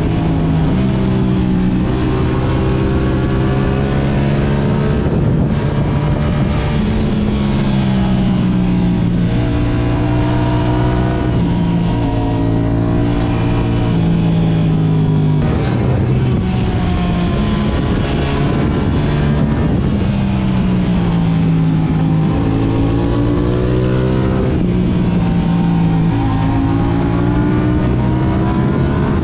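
Yamaha R6's inline-four engine through an Akrapovic exhaust, its revs climbing and falling again and again as the bike accelerates and slows.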